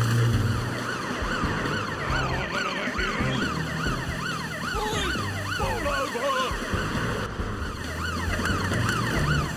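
Siren wailing rapidly up and down, about three rises and falls a second, over background music.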